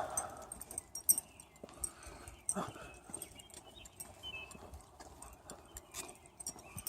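A dog moving about on a walk: scattered light clicks and taps, with two short louder bursts, one at the start and one about two and a half seconds in. Faint bird chirps sound in the background.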